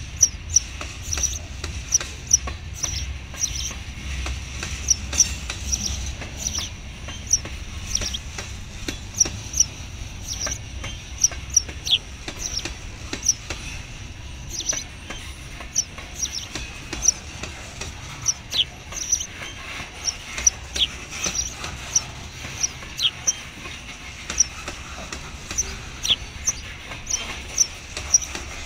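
Long freight train of hopper and tank cars rolling past: a steady low rumble with frequent short, high squeaks and clicks several times a second.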